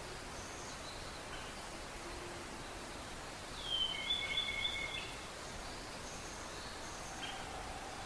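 Wild songbirds calling over a steady hiss: faint, high, short calls scattered throughout, and about halfway one louder whistled phrase that slides down and then breaks into a quick run of notes.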